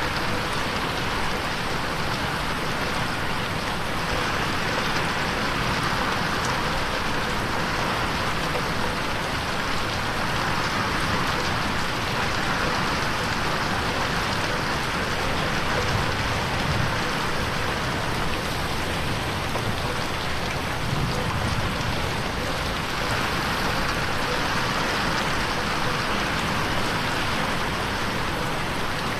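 Rain falling on a window: a steady, dense hiss of drops that swells and eases slowly now and then.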